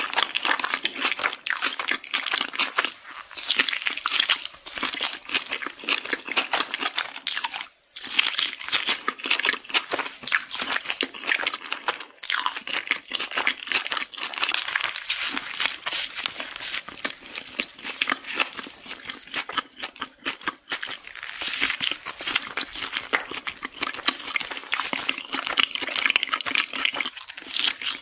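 Close-miked eating: a continuous run of crunchy bites and chewing with wet mouth sounds, as crispy fried chicken and a soft tortilla wrap are eaten.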